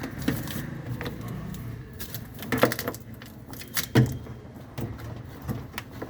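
Irregular knocks and clatters of objects being handled, about half a dozen, loudest about two and a half and four seconds in, over a low steady hum.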